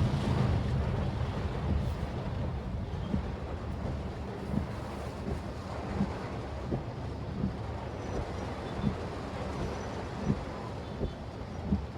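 Low road and engine rumble inside a Maruti Suzuki Swift Dzire's cabin, easing off over the first couple of seconds. Soft thumps recur about every second and a half.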